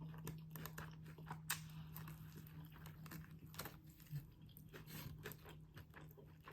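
Faint close-up chewing of a chicken tender sub: scattered small crunches and wet mouth clicks, over a steady low hum.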